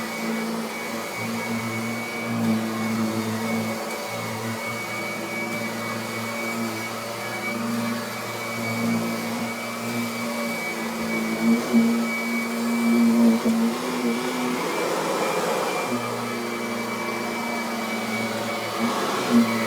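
Kirby Avalir upright vacuum cleaner running on carpet: a steady motor hum with a high whine. Its level and tone shift a little in the middle as the vacuum is worked back and forth.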